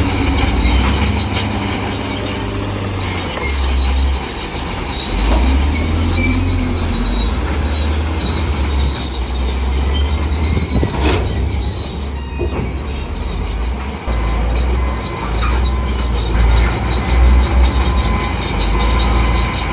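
Crawler bulldozer working: its diesel engine running under changing load, with the steel tracks squealing and clanking, and a sharp knock about eleven seconds in.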